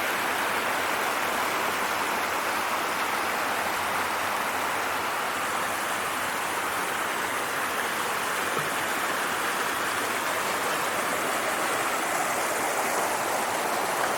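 Creek water rushing steadily down a rocky cascade of small waterfalls, a constant even rush.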